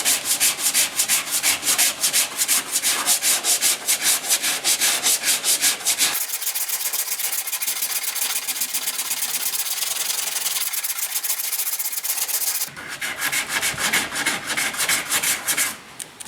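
80-grit sandpaper rubbing over body filler on a car body panel in quick back-and-forth strokes. For several seconds in the middle it turns to a steadier, smoother rasp, then the strokes return.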